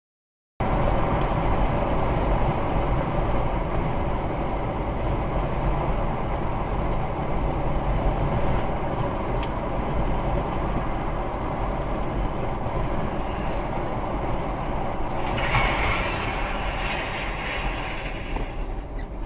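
Steady rumble of a moving vehicle, cutting in abruptly just after the start. A hissing noise joins it in the upper range for a few seconds near the end.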